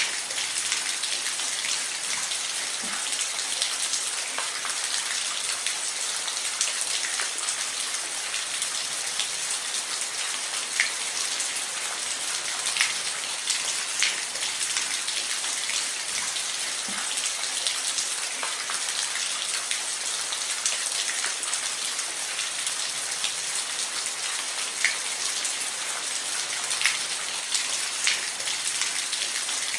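Steady rain falling on a roof: an even hiss with scattered louder drops ticking here and there.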